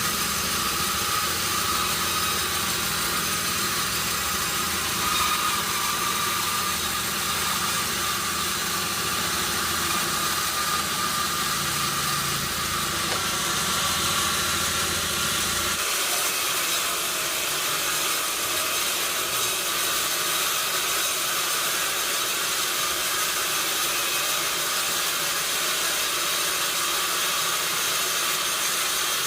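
Sawmill machinery running steadily, with a low engine-like rumble that drops out about halfway through, leaving a steady hiss.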